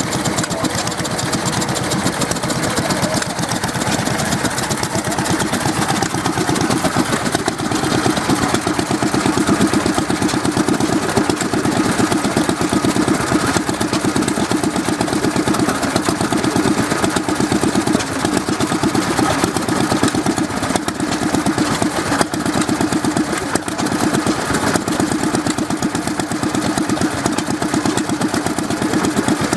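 Southern Cross twin-cylinder petrol stationary engine running steadily, its firing a fast, even pulsing.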